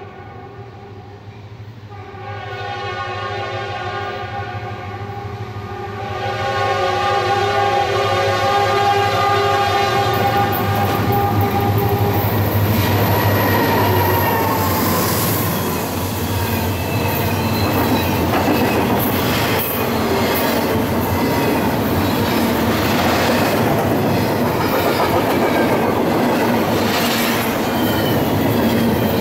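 Norfolk Southern standard-cab SD60 locomotive's horn sounding a long multi-note chord as the train approaches, growing louder and dropping slightly in pitch as it passes about twelve seconds in. The locomotives and then double-stack container cars roll by, with repeated clicking of wheels over rail joints.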